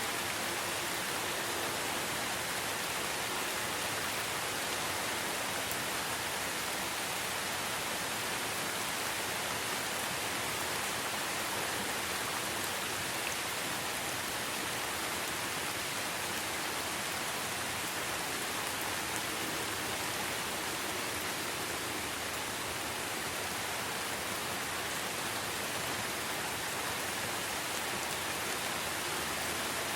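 Steady rainfall in a forest, an even hiss with no distinct drops or thunder standing out.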